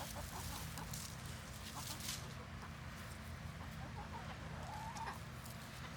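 A flock of chickens clucking, with scattered short clucks and a slightly longer call about five seconds in, over brief rustles.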